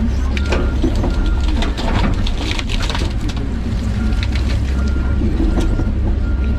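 John Deere 130G excavator's diesel engine running steadily under work, with scattered knocks and clatter as brush and roots are grubbed. A high beep repeats at a steady pace near the start and again near the end.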